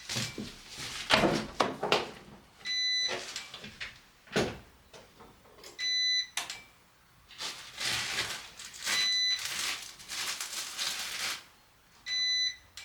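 A short, bright electronic beep repeating about every three seconds, with bursts of rough noise of a second or more in between.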